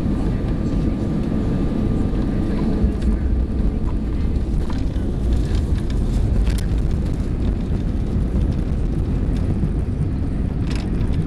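Airbus A320 cabin noise: a steady low rumble of the airliner's engines and airflow, with a faint whine that fades out in the first few seconds and a few light rattles.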